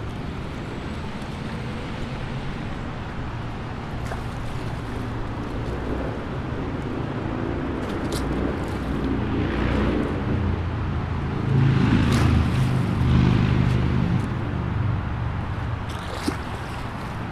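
Steady low rumbling outdoor noise that swells for a few seconds in the middle, with a few brief sharp sounds.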